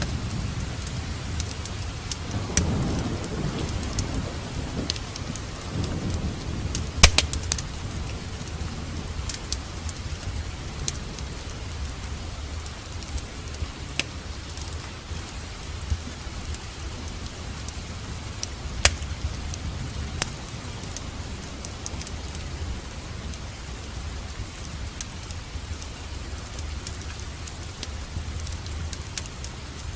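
Steady rain with a low roll of thunder a couple of seconds in, and scattered sharp crackles from a wood fire in a fireplace.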